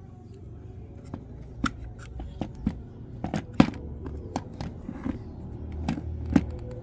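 Irregular sharp clicks and light knocks, about a dozen over several seconds, over a steady low hum.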